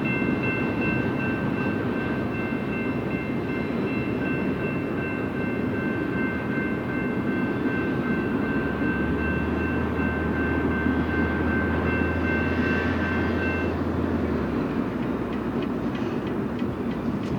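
BNSF freight train rolling past with the steady rumble of cars on the rails, with a thin steady high-pitched tone that stops about 14 seconds in and a low hum from about 9 to 14 seconds.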